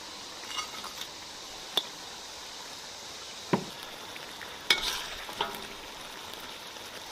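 Sauce sizzling and bubbling in a wok around a whole fried fish, with a few sharp clinks of a utensil against the wok.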